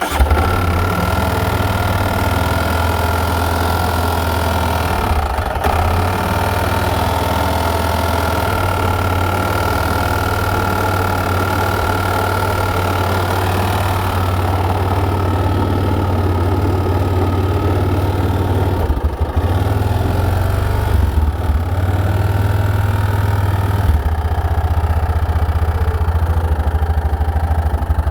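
A 2005 Yamaha Rhino's single-cylinder engine runs steadily at idle, with a thin high whine over the engine sound that fades out about halfway through. This is the unidentified noise the owner is asking about.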